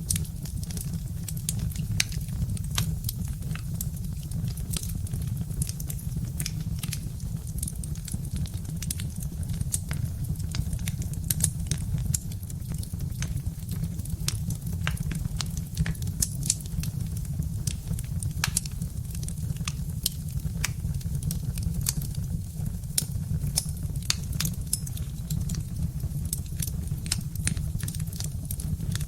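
Birch-log wood fire crackling: irregular sharp pops and snaps, several a second, over a steady low rumble.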